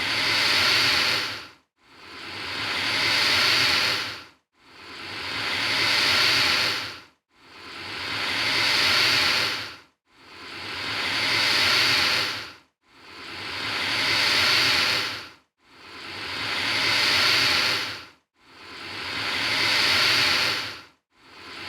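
Alligator hissing: a long breathy hiss that swells and then cuts off sharply, repeated at even spacing about every two and a half seconds, roughly eight times.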